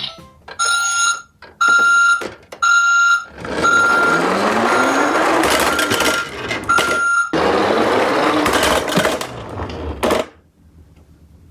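A toy garbage truck's electronic sound effects: four short repeated beeps, then a noisy whirring rush with a rising pitch, the beeping still faint under it, cutting off about ten seconds in.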